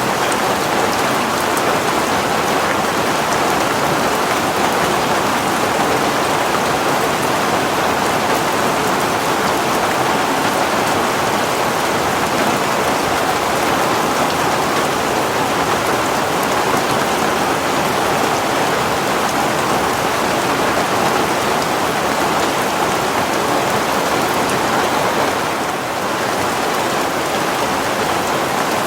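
Heavy rain falling steadily, an even rushing hiss of drops with no break, easing slightly for a moment near the end.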